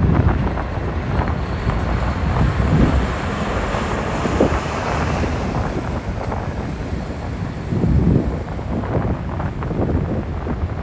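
Wind buffeting the microphone in uneven gusts, over a low rumble of vehicle engines from the ferry unloading.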